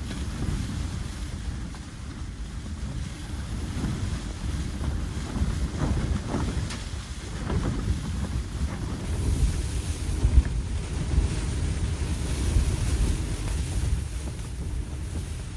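Strong blizzard wind gusting, buffeting the microphone with a low rumble that swells and eases.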